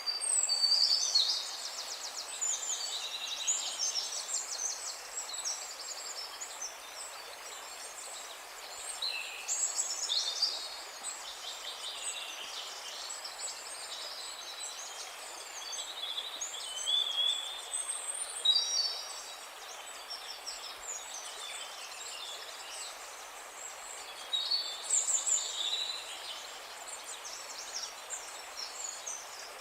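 Songbirds singing in repeated bursts of rapid high chirps and trills over a steady background hiss.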